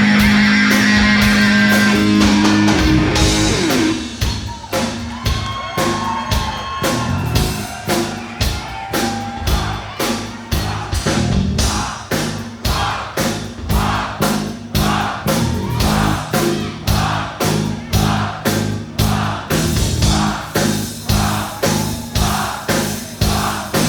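Live rock band: a held, ringing guitar chord for about the first three seconds, then a steady pounding drum beat of about one and a half hits a second.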